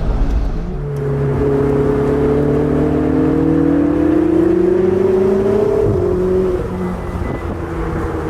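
Supercar engine accelerating hard up a mountain road, its note rising steadily for about five seconds, then dropping suddenly about six seconds in and holding a lower, steadier note.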